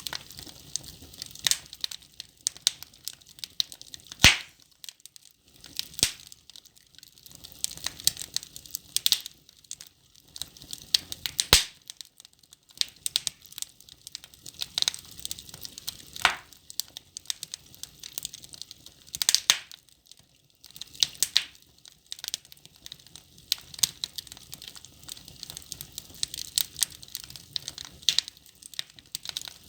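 Wood logs burning in a fireplace, crackling with a steady patter of small pops and, every few seconds, a louder sharp snap.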